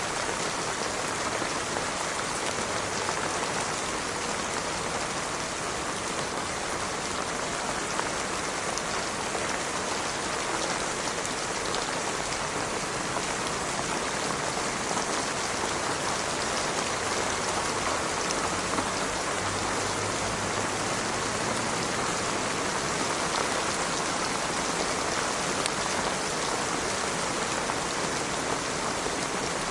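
Steady rain falling on a surface, an even hiss made up of many fine drops.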